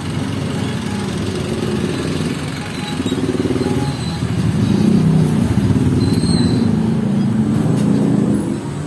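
A road vehicle's engine running while moving through traffic, a steady rumble that grows louder a little past halfway and eases off near the end.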